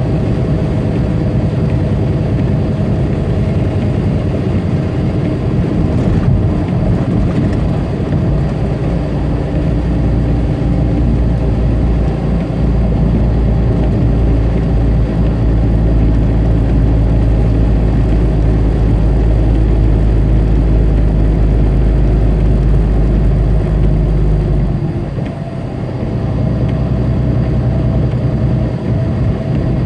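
Big-rig diesel engine running steadily under way, heard from inside the tractor-trailer's cab along with road noise. The deep engine hum drops away for a moment about 25 seconds in, then comes back.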